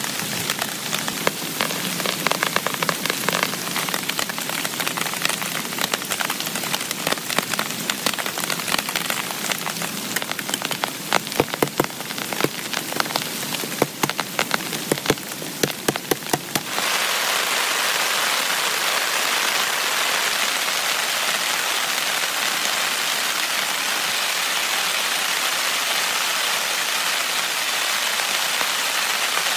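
Heavy rain falling on a tent, with many separate loud drop impacts. About two-thirds of the way through it changes abruptly to a steady, even hiss of downpour.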